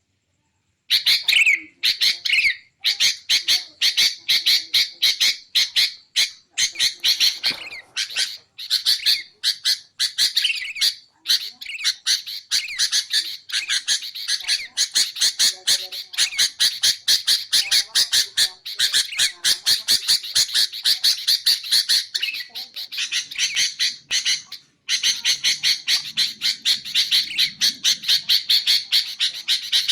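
Sooty-headed bulbul (kutilang) calling and chattering in a fast, nearly continuous run of short notes, broken by a few brief pauses.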